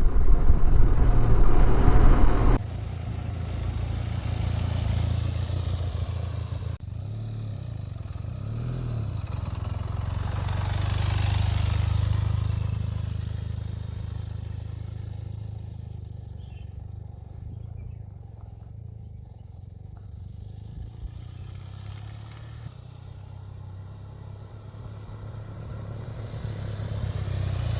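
Benelli TRK 502 motorcycle's parallel-twin engine running steadily on the move, a low hum. It is loud with wind rush for the first two or three seconds, then drops suddenly to a quieter drone.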